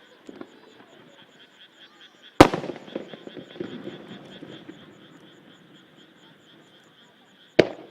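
Two aerial firework shells bursting with a sharp bang each, about two and a half seconds in and again near the end; the first is followed by a few seconds of rumbling echo and crackle. A steady, pulsing chorus of frogs carries on underneath.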